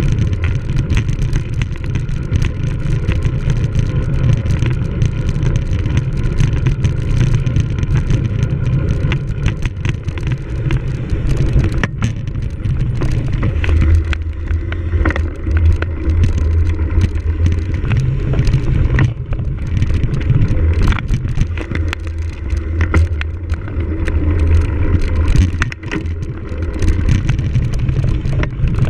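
Wind buffeting the microphone of a camera on a cyclocross bike being ridden over rough ground, with the bike rattling and clicking throughout.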